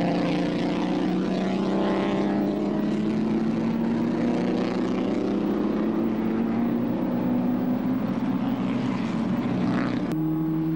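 Pre-war racing car engine running hard, its note climbing slowly as it gains speed. About ten seconds in it cuts abruptly to a different engine note.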